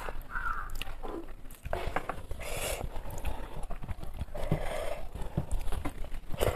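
Close-miked chewing and wet lip-smacking while eating rice by hand, a string of irregular small clicks and squelches. Fingers mix rice against the plate between mouthfuls.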